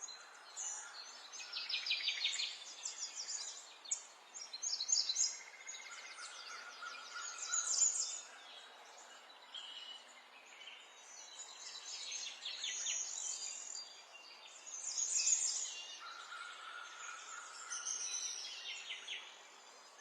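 Small songbirds singing and chirping, with repeated rapid trills and a few held whistled notes, over a light background hiss.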